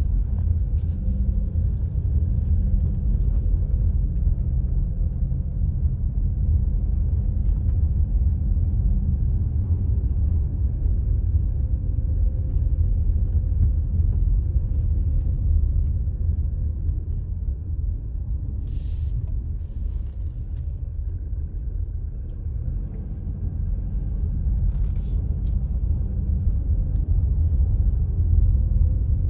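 Steady low rumble of a car being driven, tyre and engine noise. Three short high-pitched hisses or clicks cut in, two close together about two-thirds of the way in and one near the end.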